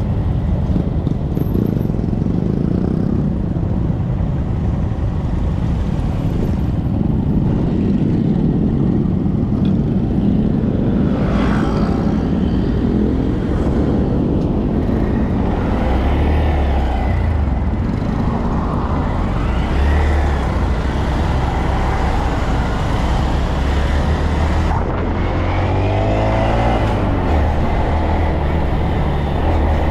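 Honda Monkey 125 motorcycles underway on the road, engines running steadily under a constant loud rushing noise. The engine pitch rises a couple of times, about a third of the way in and again near the end.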